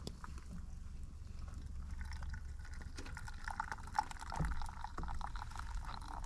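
Hot coffee being poured from a campfire pot into a cup, a steady stream starting about two seconds in.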